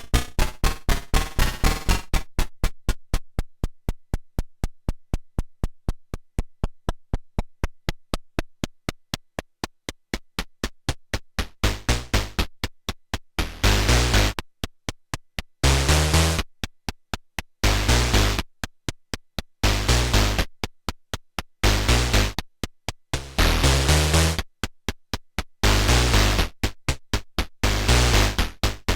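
Sequenced Eurorack synthesizer pattern from a Modbap Osiris wavetable oscillator. A fast, even run of short clicky notes gives way about twelve seconds in to longer, bright, gritty notes with a deep bass body, repeating in a steady rhythm.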